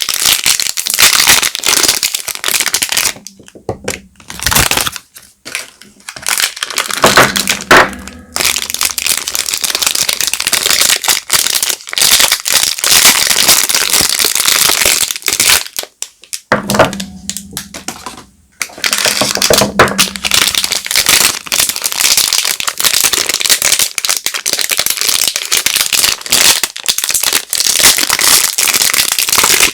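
Soap packaging crinkling and crumpling loudly as bars of soap are unwrapped by hand, with a few short pauses.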